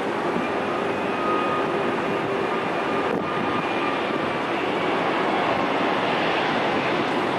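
Boeing 777-200 airliner on its landing approach, its twin jet engines making a steady rushing noise with a faint whine in it, slowly getting louder.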